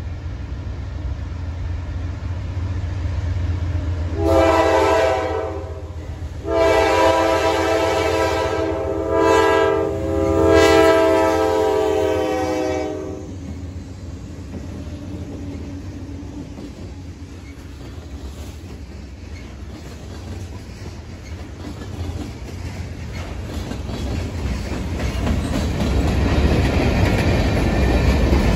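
Diesel freight locomotive's horn sounding several notes at once: a short blast about four seconds in, then a longer blast that dips briefly twice before stopping. After the horn the train rumbles past, its wheels clacking over the rail joints, getting louder near the end.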